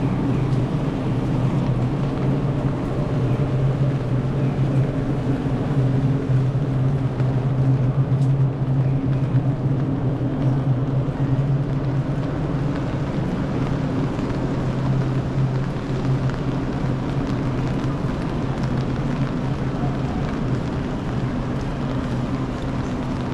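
Rainy city street ambience: a steady low rumble under an even haze of rain noise.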